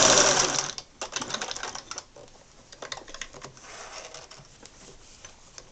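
Singer 401A sewing machine running fast while stitching through four layers of denim, then stopping under a second in. Scattered light clicks and taps follow as the machine and fabric are handled.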